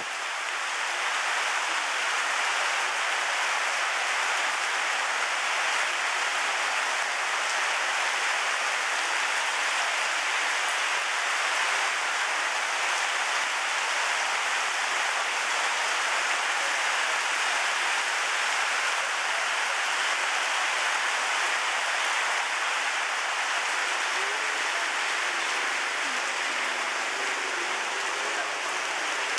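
Heavy rain falling steadily: a dense, even hiss of rain on surfaces that does not let up.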